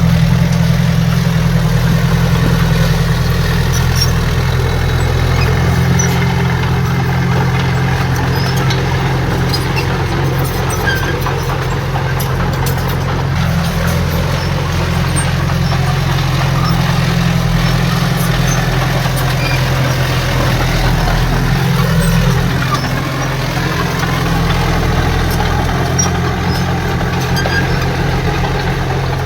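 Heavy diesel engine of earthmoving machinery (bulldozer or dump truck) running steadily at an even speed, a deep hum.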